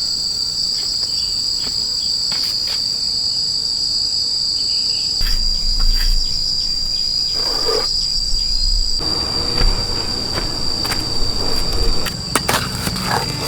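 Insects calling in a steady, high-pitched chorus, with scattered knocks and clicks and some rumbling handling noise in the second half.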